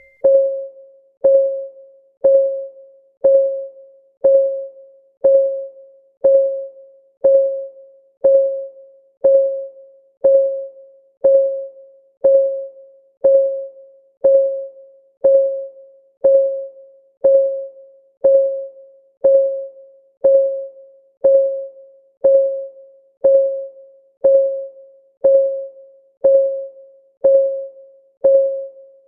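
Clock-ticking sound effect for a countdown timer: a short, pitched tick once a second, each dying away quickly, keeping an even beat.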